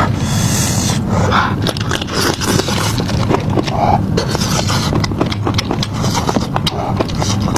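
Close-miked eating sounds: rapid, irregular chewing and crunching clicks.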